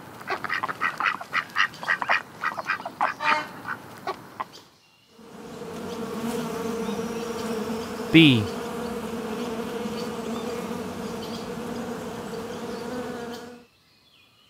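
A duck quacking in quick repeated calls for about four and a half seconds. After a short break, a bee buzzes with a steady, even hum for about eight seconds.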